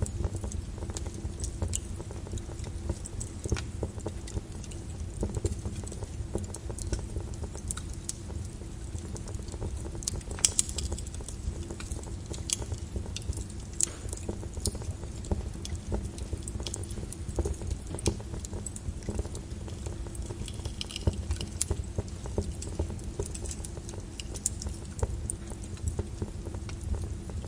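Flowing lava crackling, with irregular sharp clicks and pops over a steady low rumble.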